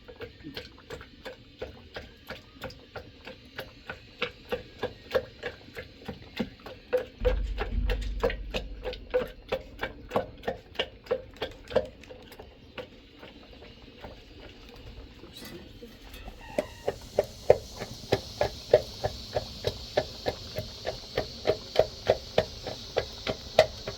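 Steady rhythmic knocking, about two to three strokes a second, each with a short ringing note. A steady hiss joins about sixteen seconds in.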